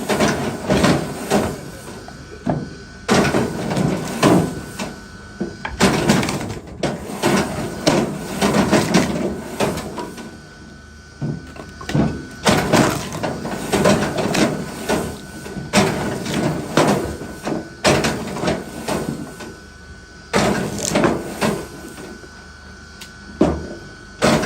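Wood knocking and clattering in irregular clusters of sharp knocks, as wood is handled and split. A faint steady high tone runs underneath.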